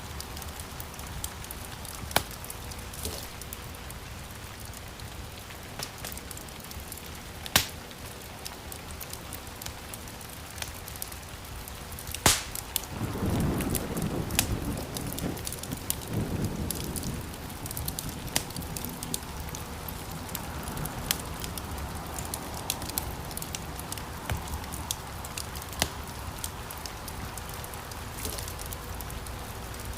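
Wood fire crackling: a steady hiss with scattered sharp pops, a few of them loud. About halfway through, a louder low rumble lasts a few seconds.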